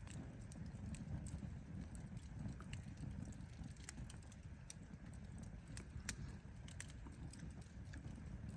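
Campfire firewood burning, crackling and popping with irregular sharp snaps, a few louder ones scattered through, over a low steady rumble.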